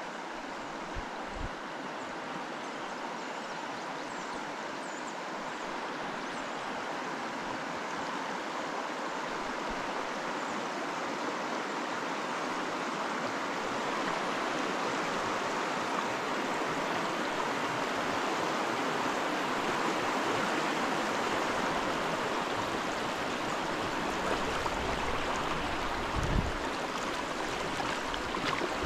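Creek water running, a steady rush that grows gradually louder. A few soft low thumps, one about two and a half seconds before the end.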